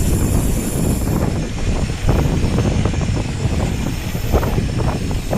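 Wind rumbling and buffeting on a GoPro's microphone as a mountain bike rolls down a short descent, with scattered knocks and rattles from the bike over the rough surface.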